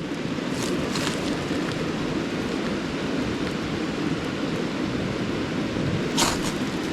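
Ferro rod struck against cedar-bark tinder: short, sharp, high scrapes, two about half a second to a second in and two more near the end, over a steady low rushing noise.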